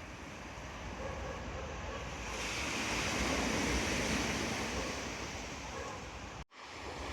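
Rough sea surf breaking on the beach, swelling to its loudest about three seconds in and then easing, with wind buffeting the microphone. The sound cuts out for a moment near the end.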